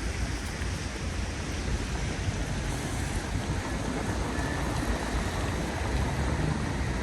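Steady hiss of rain over a low, continuous rumble of city traffic.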